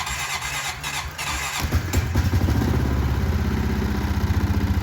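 2016 Honda Rancher ATV's single-cylinder engine being cranked by the electric starter in 0°F cold, catching about a second and a half in and settling into a steady, fast idle.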